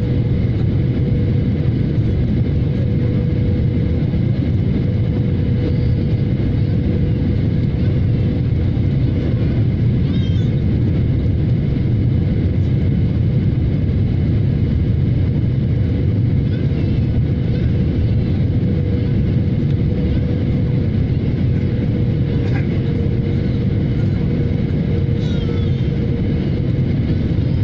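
Boeing 737 jet in flight: a loud, steady rumble of engines and rushing air with a thin steady hum above it, holding level throughout.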